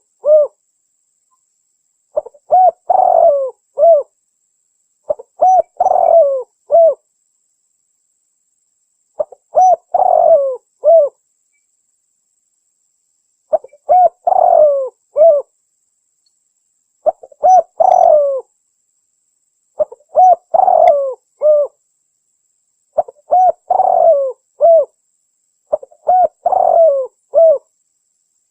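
Spotted dove cooing: eight short phrases of several coos each, repeated every three to four seconds with silence between. It is a lure call that hunters play to draw spotted doves, billed as a female calling a male.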